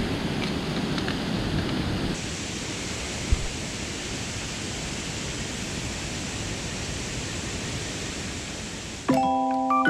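Steady rushing noise with a single dull thump about three seconds in; a piano melody starts near the end.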